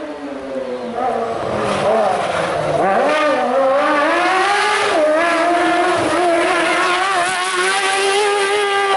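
Rally car engine running hard. Its note climbs steadily, with brief dips in pitch about five and six seconds in.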